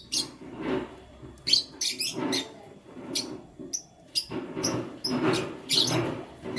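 Pet canaries chirping in short, sharp, high calls, several in quick runs, mixed with lower rustling and fluttering.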